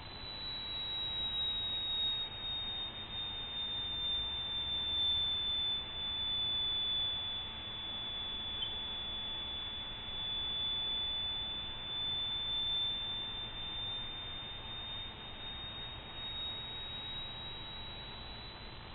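A steady, high-pitched electronic tone that sags a little in pitch through the middle and rises back near the end.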